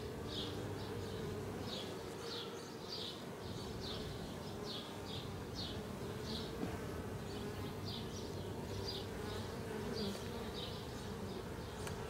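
Honey bees buzzing steadily around an open nuc box while a frame is inspected, with a faint high chirp repeating about twice a second.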